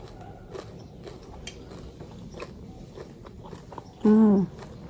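A person chewing a mouthful of crispy fish chatpate, with small irregular crunches. About four seconds in, a short closed-mouth 'mmm' that falls in pitch at its end.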